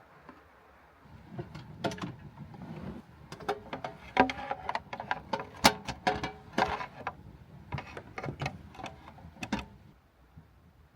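A run of irregular clicks, knocks and clatter, with a few short ringing tones in the middle, stopping about a second before the end.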